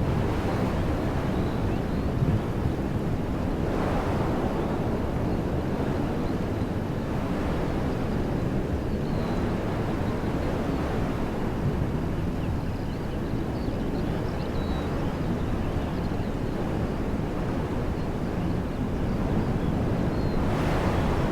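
Wind blowing steadily through woodland trees, a dense rushing noise that is heaviest in the low range, with wind buffeting the microphone. A few faint, high bird chirps come through now and then.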